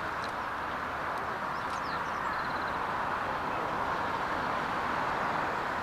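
Steady jet noise from an Airbus A350-900 airliner's engines, an even rushing sound that holds at one level. A few faint high bird chirps come in about two seconds in.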